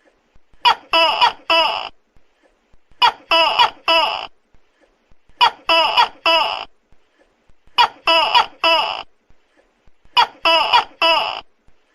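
Tokay gecko calling loudly: groups of three sharp, croaking notes, a short one followed by two longer ones, repeated about every two and a half seconds, five times over.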